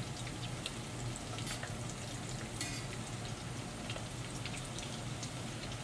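Potato chunks shallow-frying in oil in an enamelled cast-iron pot, sizzling steadily with many small crackles. The metal tongs turning them click against the pot now and then, over a steady low hum.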